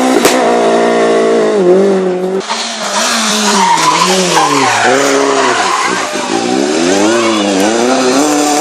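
Renault Clio rally car engine held at high revs, then dropping sharply about two and a half seconds in and revving up and down several times, with tyres skidding and squealing.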